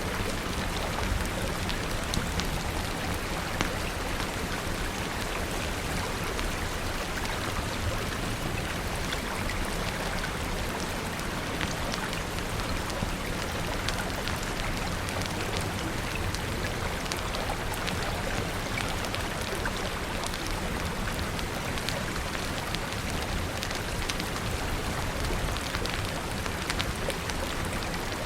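Steady, even rainfall with many scattered sharp ticks of drops or crackles.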